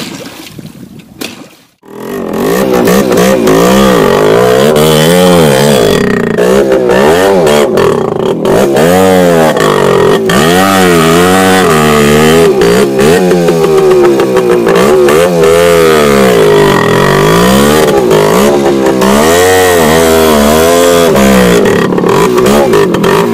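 Voskhod 3M motorcycle's single-cylinder two-stroke engine revved hard, its pitch rising and falling again and again, while the rear wheel spins in the mud. It starts about two seconds in.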